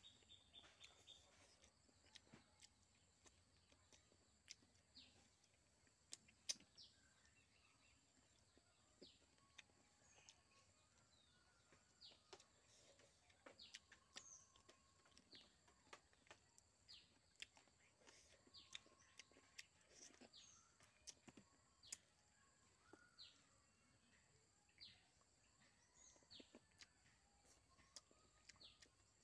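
Near silence: faint outdoor ambience with short high bird chirps every second or two and a faint steady high hum, over soft scattered clicks of eating by hand.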